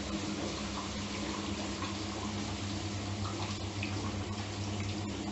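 Steady rushing noise with a low, even hum underneath, without a break.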